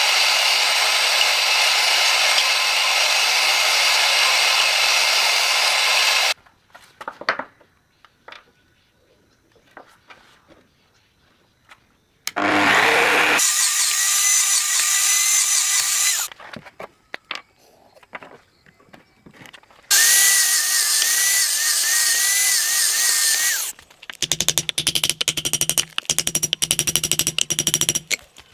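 A power grinding tool working the steel of a forged knife blade in passes of a few seconds each, loud and hissing, with quiet pauses between. Near the end the grinding turns into a fast, stuttering rasp.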